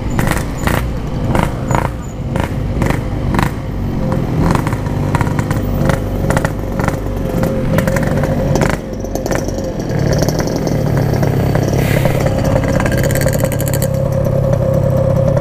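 Yamaha RX-King two-stroke motorcycle riding, its engine and exhaust heard up close; irregular sharp crackles fill the first half, then from about ten seconds in the engine runs at a steady pitch.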